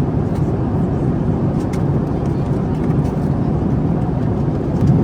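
Steady low rumble of engine and airflow noise inside the cabin of a Boeing 767-400ER airliner in flight.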